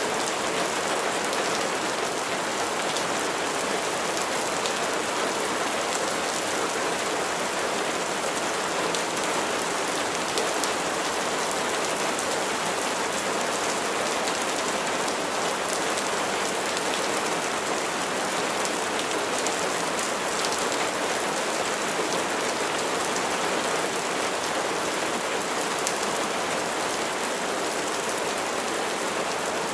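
Steady rain falling as an even hiss, with faint scattered drop ticks throughout.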